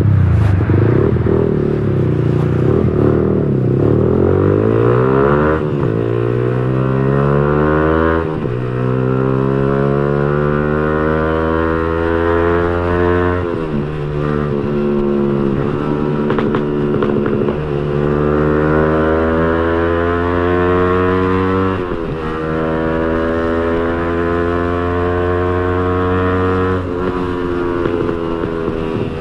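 Yamaha R15 V3's 155cc single-cylinder engine through an aftermarket racing exhaust, ridden under acceleration. The pitch climbs in each gear and drops sharply at each upshift, several times over, with a stretch of steady cruising in the middle.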